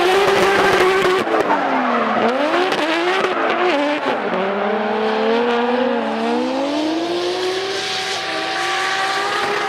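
Drift cars running at high revs while sliding, with tyre squeal over the engines. The engine pitch drops sharply about two seconds in and again about four seconds in, then climbs steadily.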